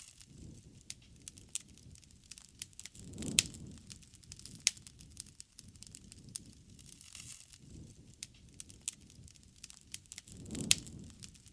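Wood campfire burning, logs crackling and popping irregularly over a soft low rumble of flame. Two louder surges with sharp pops come about three seconds in and near the end.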